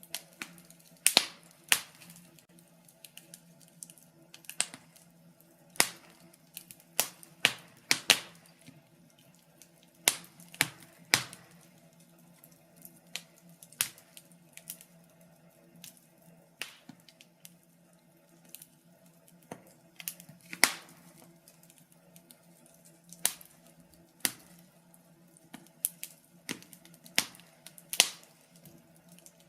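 Wood fire crackling in a fireplace: irregular sharp pops and snaps of burning wood, a few every several seconds, some louder than others, over a faint steady hum.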